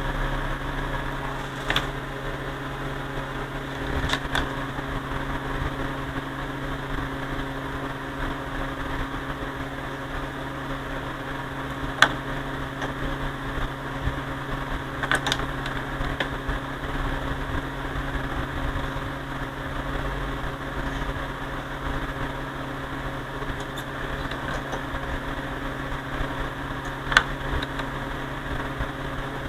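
Steady hum of electronic test-bench equipment, with about five short sharp clicks from knobs or switches being worked, the loudest about twelve seconds in.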